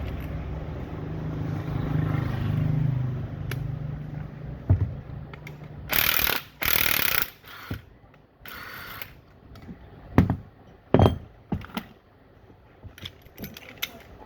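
Workshop sounds from a water pump repair: an electric motor's steady hum that fades out in the first few seconds, then scattered metal knocks and clanks of tools and pump parts being handled, with two short bursts of hiss-like noise about six and seven seconds in.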